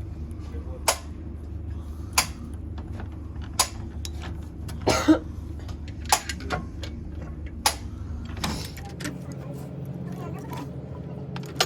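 Sharp knocks and taps every second or two over a steady low machine hum, typical of hand-tool work in an engine repair workshop. One longer scraping burst comes about halfway through, and the hum changes near the end.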